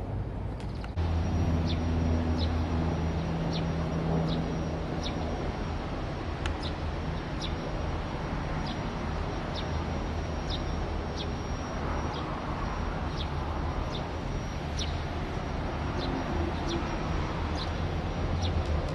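Low, steady drone of an aircraft passing overhead, with a bird repeating short, high, falling chirps about twice a second.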